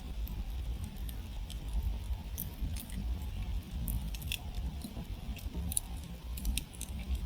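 Wood campfire burned down to glowing embers, crackling with frequent irregular sharp snaps and pops over a low steady rumble.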